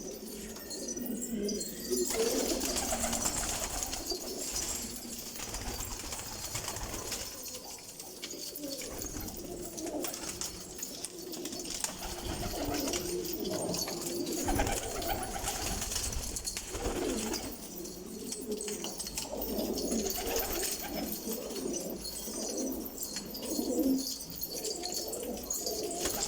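Domestic pigeons cooing over and over, several low, wavering coos overlapping.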